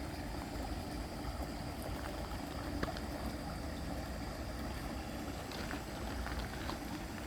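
Mountain stream water running steadily, with a few faint clicks.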